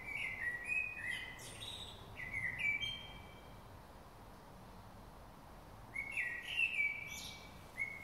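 A songbird singing: a phrase of clear whistled notes stepping up and down in pitch, about three seconds long, then a pause, then a second phrase about six seconds in.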